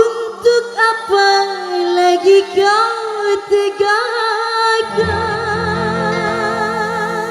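Live band music in a song's opening: a wavering, singing-like melodic lead with vibrato over backing instruments. A low bass part joins about five seconds in.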